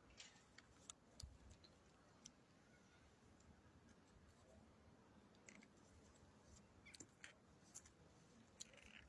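Near silence, with a dozen or so faint, short clicks scattered through it.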